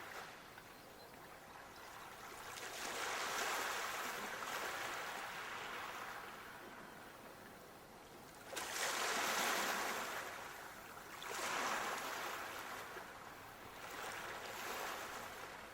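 Ocean waves washing in, a rushing noise that surges and fades every few seconds. The loudest wave breaks suddenly about halfway through.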